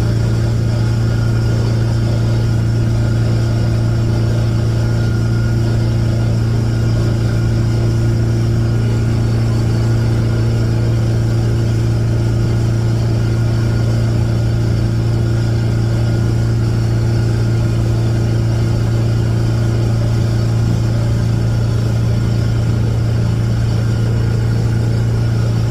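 Bayliner Capri boat's engine running at a constant speed, a steady low hum that holds the same pitch throughout.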